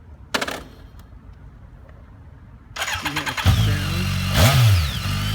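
BMW K1300S's 1300 cc inline four being started: after a brief noise about half a second in, the starter cranks for under a second, the engine catches, takes one quick blip of the throttle, then settles into a steady idle.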